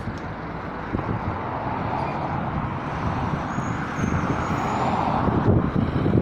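Strong wind buffeting the microphone while riding into it, mixed with road traffic whose tyre noise swells as vehicles pass, about twice.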